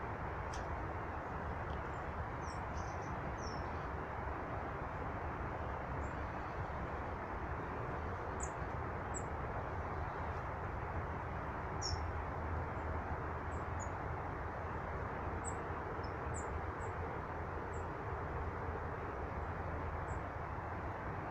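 Small birds giving short, high chirps here and there over a steady rushing background noise.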